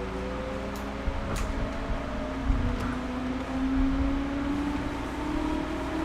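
JR Series 211-5000 electric commuter train heard inside the passenger car while running: a steady rumble of running gear with a motor and gear whine that rises slowly in pitch as the train gathers speed. A few short clicks and low knocks come through in the first half.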